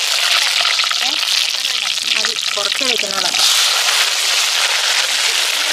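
Food frying in hot oil in a cooking pot, a steady loud sizzle, with faint voices underneath.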